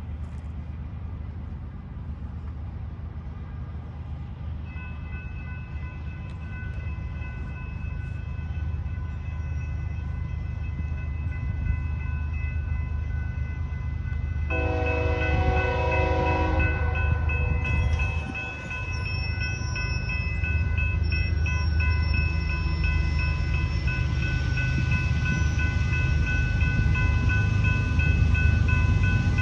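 Train approaching, its diesel locomotive rumble growing steadily louder, with one long horn blast about halfway through. Steady high ringing tones sound through most of it.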